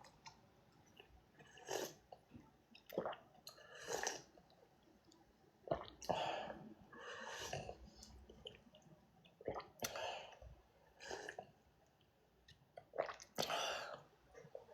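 Faint, intermittent mouth noises of someone eating noodles: short slurps and chewing every second or so.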